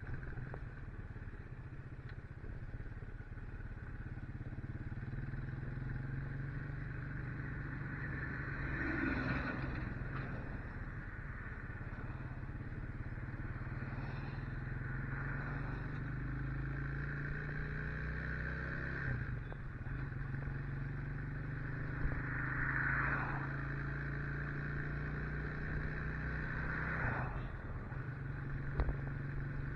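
Motorcycle engine running steadily while the bike is ridden, its note shifting a few times as speed changes.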